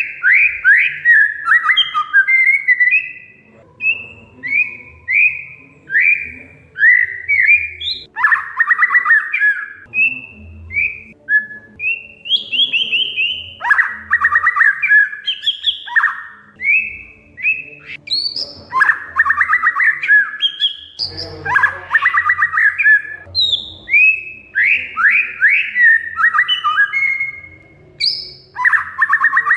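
Oriental magpie-robin (kacer) singing: a string of short whistled notes, many sliding down in pitch, broken about five times by a fast, harsh rattling chatter.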